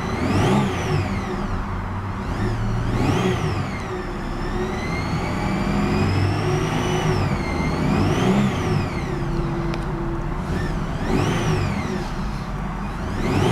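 A 1999 Chevrolet Malibu's 3100 V6 being revved several times, the engine note rising and falling with each blip of the throttle. The owner notes a noise coming from the engine that he can't identify.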